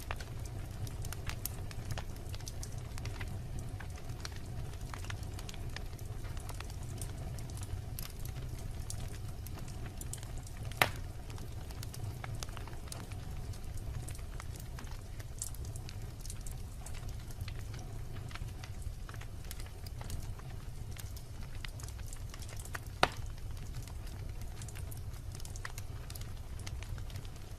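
Log fire burning in a fireplace: a steady low rumble with scattered light crackles throughout. Two sharp, loud pops stand out, about eleven seconds in and again about twelve seconds later.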